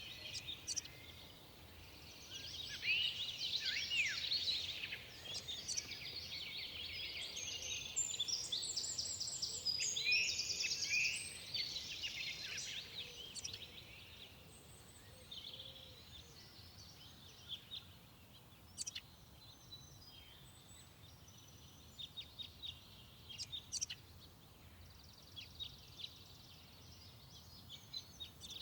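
Several forest songbirds singing, with overlapping chirps and quick trills for the first half, thinning to scattered short chirps later. A faint low rumble lies underneath.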